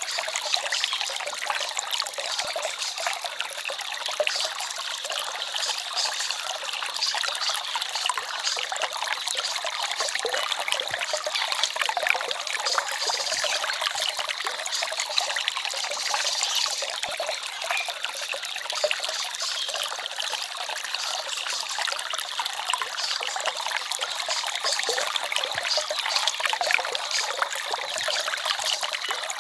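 Small forest stream trickling and babbling steadily over stones, a light, busy splashing without deep rumble.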